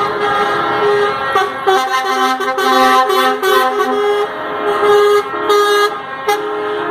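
Truck air horns blasting repeatedly, several horns at different pitches overlapping and starting and stopping in long and short blasts.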